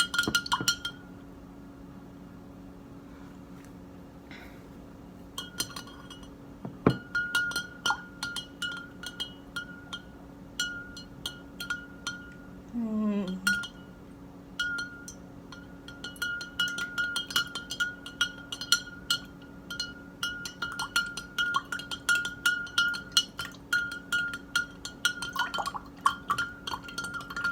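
A spoon stirring water fast in a drinking glass, striking the inside of the glass in quick, dense clinks that set the glass ringing with a clear tone. The clinking stops for a few seconds about a second in, then resumes and runs on with one short break near the middle.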